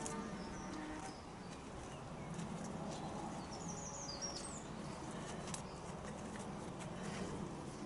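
A small bird calls once, a quick run of about six high chirps a little after halfway through, over steady outdoor background noise with scattered faint clicks.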